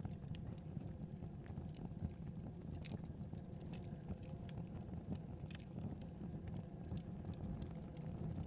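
Wood fire crackling: irregular sharp snaps and pops over a steady low rumble of burning.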